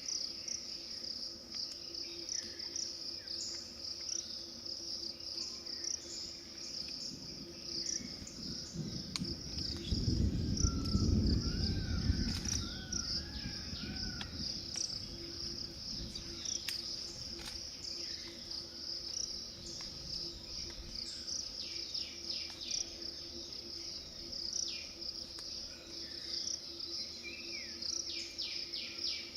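Steady high-pitched insect chorus with scattered short bird chirps and a few arched calls. A low rumble swells about eight seconds in and fades by about fourteen seconds.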